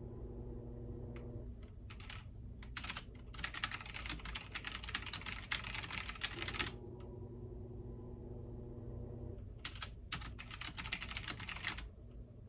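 Computer keyboard typing in two runs of rapid keystrokes, the first about two seconds in and the second near the end. Underneath is the steady low hum of a washing machine running.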